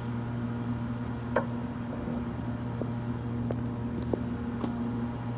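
A steady low hum with about half a dozen light clicks and clinks scattered through it, the sharpest about a second and a half in.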